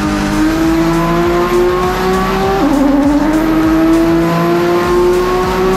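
Twin-turbo 2JZ inline-six in a land-speed streamliner running hard, its pitch climbing steadily. About two and a half seconds in, the pitch drops sharply as it changes gear, then climbs again.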